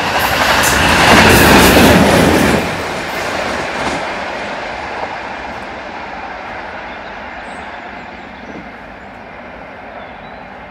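GBRf Class 66 diesel locomotive, with its two-stroke V12 engine running and a dead Class 69 in tow, passing close by. It is loudest between about one and two and a half seconds in, then fades steadily as the pair move away.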